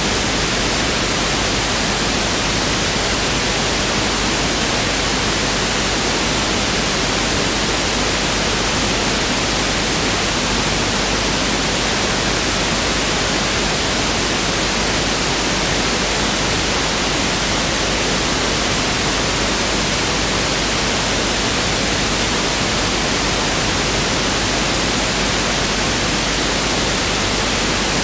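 Pink noise test signal: a steady, even hiss spread across all frequencies, constant in level throughout.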